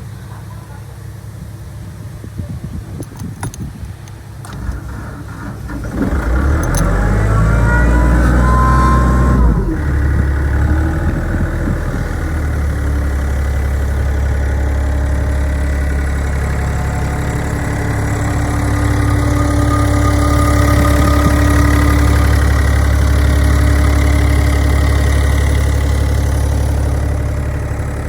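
AIRMAN portable diesel engine compressor starting about six seconds in after a few clicks. The engine speeds up briefly, then settles into a steady low diesel idle.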